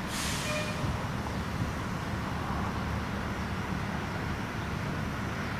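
Steady low rumble of vehicle engines and road traffic, with a short hiss that fades away in the first second.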